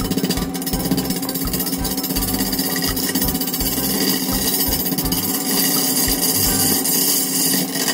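A power tool running steadily through wood, loud, with irregular low thumps under a constant hum.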